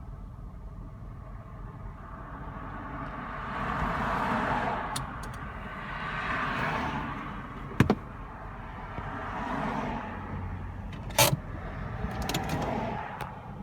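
Cars passing one after another on the road, each swelling and fading away. Two sharp knocks, one about eight seconds in and one about eleven seconds in, the second the loudest sound.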